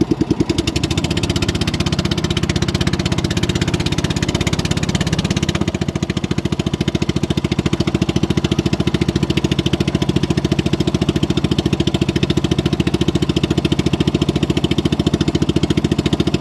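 Motorboat engine running steadily at a constant speed, with a fast even pulse.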